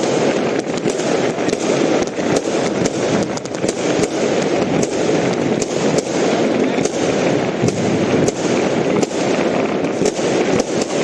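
Firecrackers and fireworks going off without a break: a dense crackle of many overlapping sharp bangs at irregular intervals.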